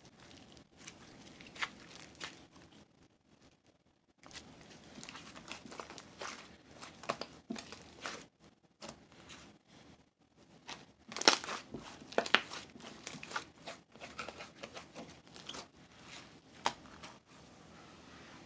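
Irregular crinkling and crackling, like something thin being crumpled and handled, with a short pause about three seconds in and the sharpest cracks a little past the middle.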